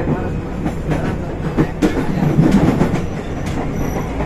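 Former Tokyu 8500-series electric commuter train running, heard from inside motor car DeHa 8710: a steady rumble of wheels and motors, with a few sharp clacks from the rail joints.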